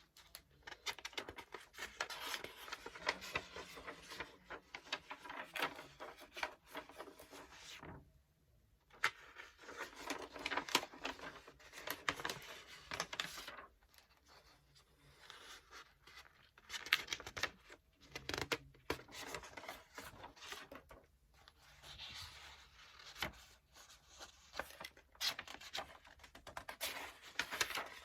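Paper book pages being turned and flipped close up, a dense crackly rustle in runs of several seconds with short pauses between them.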